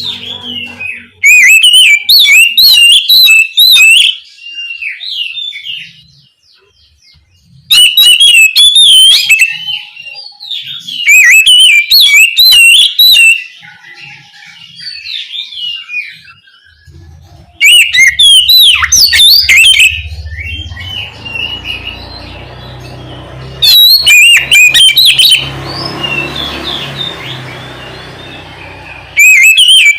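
Oriental magpie-robin singing loud bursts of rapid, varied whistled phrases, each lasting two to three seconds and repeated about six times, with quieter song between the bursts. A low rumble runs underneath in the second half.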